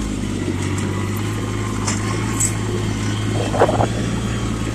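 Yanmar compact tractor's diesel engine running steadily while it drives and tows a rake, with a brief rattle about three and a half seconds in.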